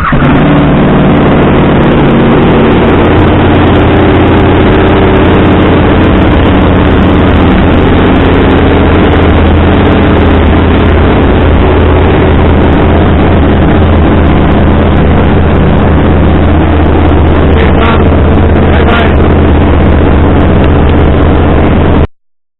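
KTM 990 Super Duke's 75° V-twin idling steadily through a decatted Fresco Penta aftermarket exhaust, loud enough to overload the action-camera mic. This is the untouched idle that lets a newly flashed TuneECU map complete its 15-minute ECU reset. It cuts off abruptly near the end.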